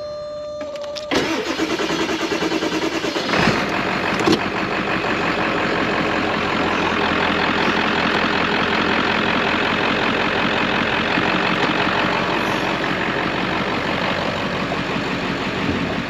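A 1995 Ford F-250's 7.3 Power Stroke turbo-diesel V8 is cranked over about a second in and catches about two seconds later. It then settles into a steady diesel idle. A steady tone sounds before the cranking and stops when it begins.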